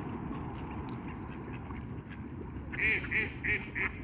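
A duck quacking: a quick series of about five quacks, about three a second, starting a little past halfway, over a steady low rumble.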